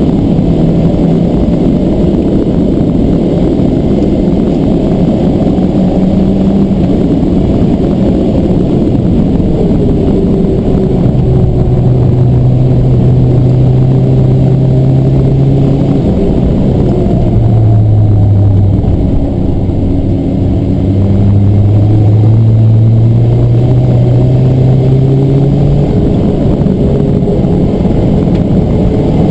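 2006 VW Polo GTI's turbocharged four-cylinder engine driven hard on track, heard from inside the cabin over road and wind noise. The engine note climbs slowly under acceleration, drops back about halfway through as the car slows for a corner, then climbs again.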